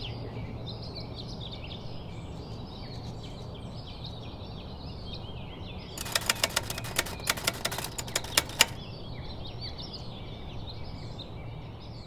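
Small birds chirping over a steady low hiss. About halfway through comes a run of sharp, irregular clicks, close and louder than the birds, lasting nearly three seconds.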